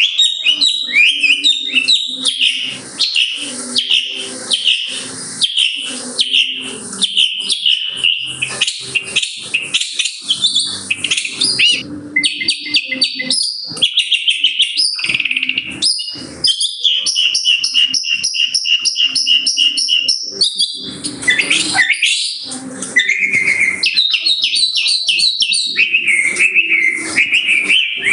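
Shrike singing a rapid, varied mimicking song: runs of quickly repeated chirps, trills and sliding notes that change pattern every few seconds, with a steady held whistle a little past the middle.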